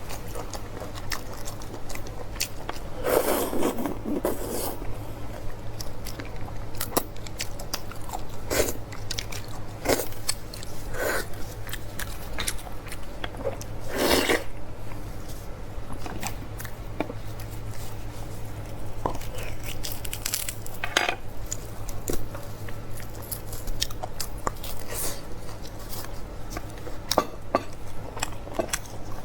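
Close-miked mouth sounds of eating beef bone marrow: irregular wet chewing and biting with occasional clicks of a spoon against a dish, over a steady low hum.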